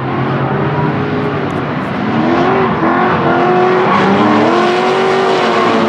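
Car engines revving hard, several engine notes rising and dipping in pitch over a dense rush of noise, typical of drift cars on track.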